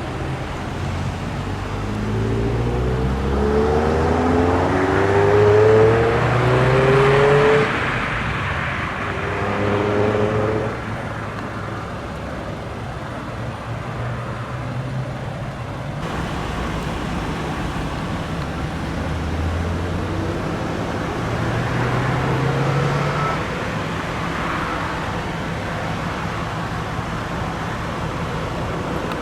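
Classic car engines revving as the cars accelerate away, the engine note rising in steps through the gears. The loudest pull peaks about six to eight seconds in, with a shorter rise around ten seconds. Another car revs up about twenty seconds in, over steady traffic noise.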